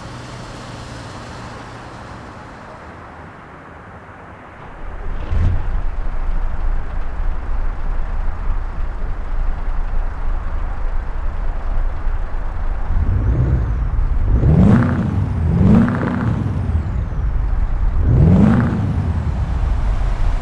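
Scania R-series V8 truck engine comes to life about five seconds in and settles into a deep idle. Near the end it is revved in four short blips, the last three hard, each pitch rising and falling back to idle.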